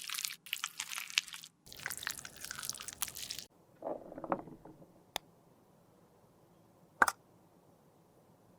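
Powdered and pressed makeup being crushed and scraped with a tool, a dense crunchy crackling in short cuts, then a softer squish. After that it goes quiet except for a faint click and then one sharp click.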